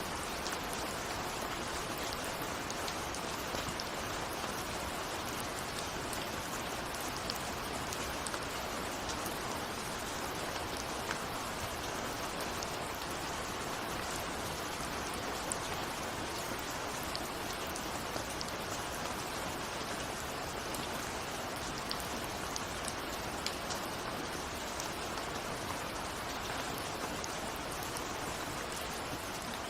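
Steady rain with many small raindrop taps on a window pane, no thunder.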